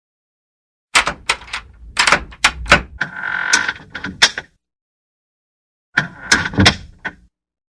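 A door being worked: a run of sharp clicks and knocks with a brief hinge squeak in the middle, a pause of about a second and a half, then a second, shorter cluster of clicks with another short squeak.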